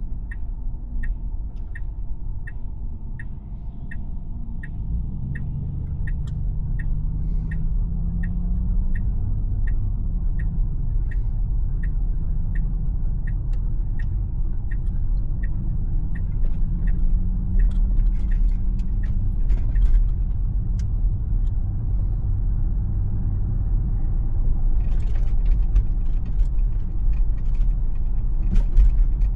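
Tesla's turn-signal ticking evenly about twice a second over the low rumble of tyre and road noise in the cabin. The ticking stops a little past halfway, and the road noise grows slightly louder as the car gathers speed.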